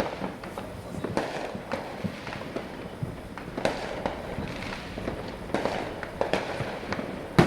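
Fireworks and firecrackers going off, an irregular run of bangs and pops, with a sharp, loud bang near the end.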